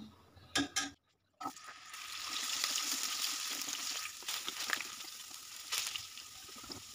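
Potatoes frying in hot oil in a non-stick pan, a steady crackling sizzle that starts about a second and a half in, while a wooden spatula stirs them. It is preceded by a couple of light knocks and a brief moment of silence.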